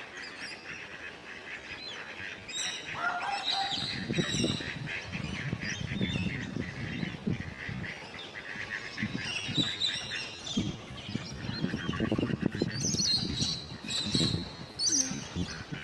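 Birds calling repeatedly and irregularly in the background.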